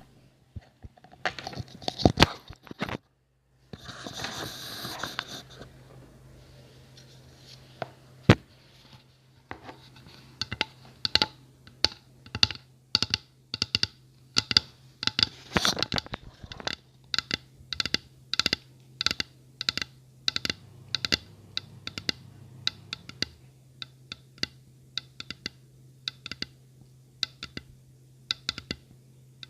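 ASMR tapping and scratching close to the microphone: sharp irregular taps, settling into about two a second for most of the stretch, with a short patch of scratching near the start, over a faint steady hum.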